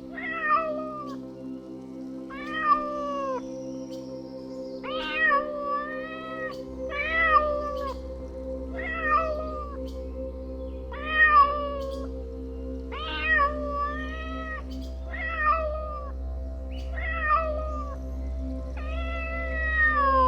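A domestic cat meowing repeatedly, about ten meows roughly two seconds apart, the last one drawn out, over soft background music with sustained low tones.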